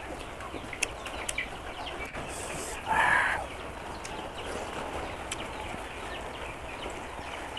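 Chewing and lip smacks of a person eating rice by hand, with scattered sharp clicks and one louder short sound about three seconds in.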